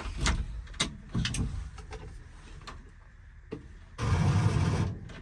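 Clicks and knocks from a 1975 Ford F-250 as the key is tried on a cold start. About four seconds in comes a brief noisy sound lasting about a second, but the engine does not start: the battery is dead.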